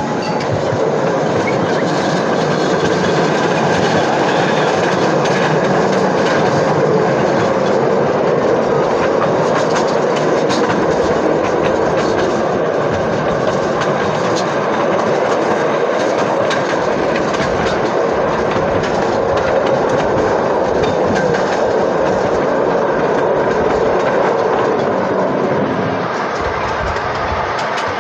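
Freight train rolling along, heard from aboard a freight car: a loud, steady rumble and rattle of the car, with the clickety-clack of the wheels over rail joints. It eases slightly near the end.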